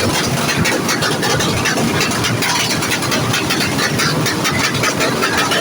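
A vehicle engine running steadily and loudly, with no clear revs or pauses.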